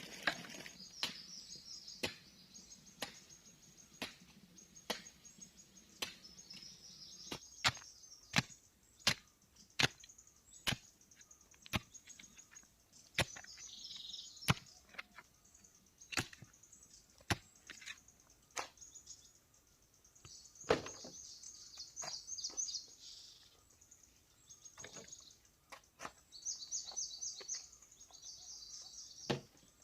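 Repeated chopping blows with a hand tool, about one a second, coming a little faster near the middle and thinning out toward the end, with one heavier blow about two-thirds of the way in. Birds chirp behind them.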